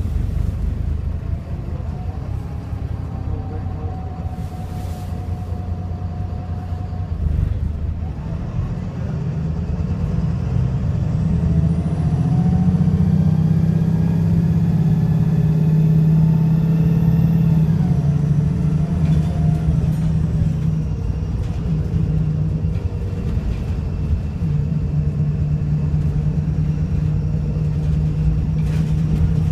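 VDL SB200 bus with a Voith automatic gearbox pulling away hard after a kick-down: the engine and transmission whine rise steadily in pitch and loudness, then drop back at a gear change about two-thirds of the way through, before running on more evenly. The engine is misfiring and sounds very unhealthy.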